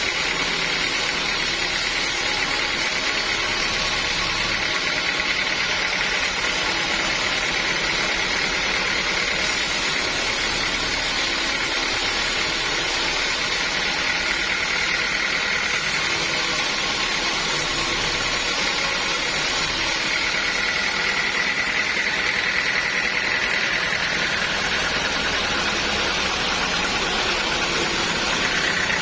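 Sawmill saw running steadily, a continuous machine noise with a high whine.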